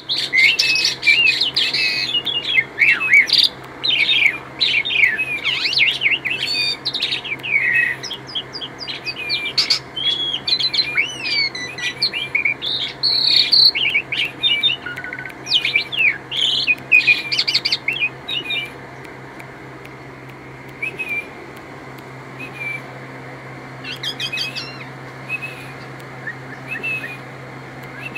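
Asian pied starling (jalak suren) singing: a dense, varied run of whistles, squeaky notes and chatter for about the first eighteen seconds, then only scattered short calls.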